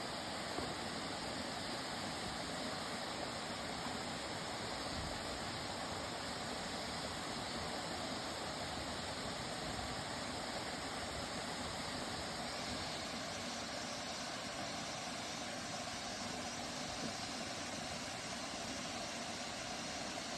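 Nunobiki Falls waterfall: a steady, unbroken rush of falling water.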